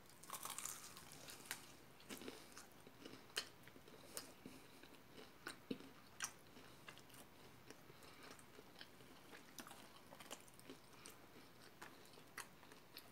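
A person biting into a barbecue-sauced fried chicken leg and chewing it, heard as faint, scattered crunches and mouth clicks, a little busier in the first second or so.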